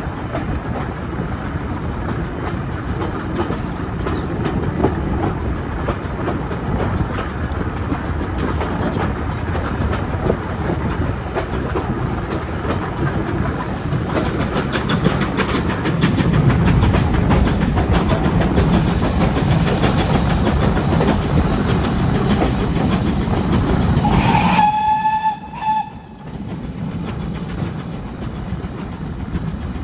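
Train running along the line, its wheels clattering over the rail joints and growing louder midway. Near the end a single whistle blast of about a second and a half sounds, after which the running noise drops sharply.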